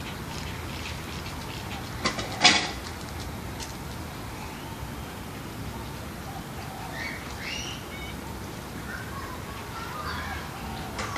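Faint bird calls, a scattering of short chirps from about five seconds in, over a steady background hiss. About two seconds in come two sharp clicks, the second the loudest sound.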